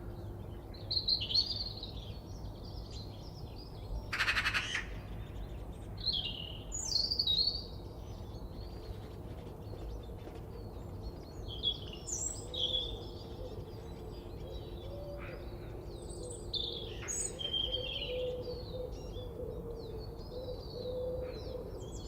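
Forest birds chirping and singing, with short high calls and whistled phrases coming one after another, and a single harsh, noisy call about four seconds in, over a faint low background rumble.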